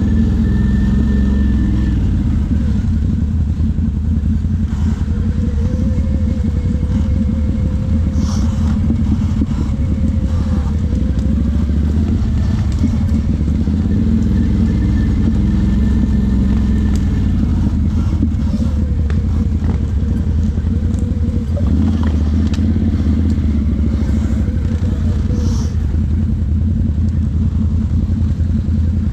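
Off-road vehicle engine running steadily while riding, its pitch rising and falling a little with the throttle, with scattered light clatters.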